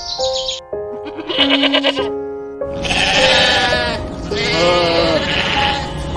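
Sheep bleating: two long, wavering bleats starting a few seconds in. Background music with plucked notes plays throughout.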